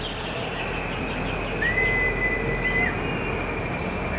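Caged songbirds singing together: quick high chirps and trills, with one long level whistle held for over a second near the middle.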